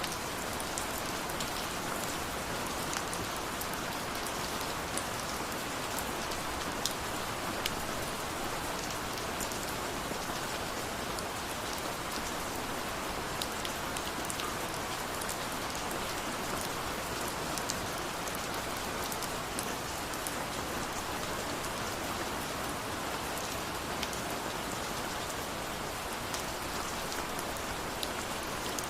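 Steady rain falling, a dense even hiss with the sharp ticks of individual drops landing on a surface.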